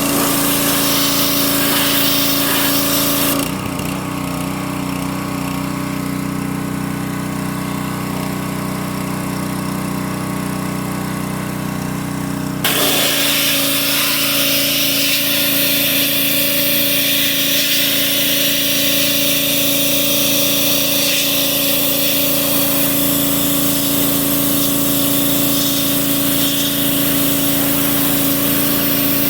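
A motor running steadily with a constant hum; a few seconds in its high hiss drops away for about nine seconds, then comes back.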